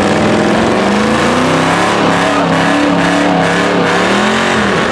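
Car engine revving, its pitch climbing and then rising and falling several times.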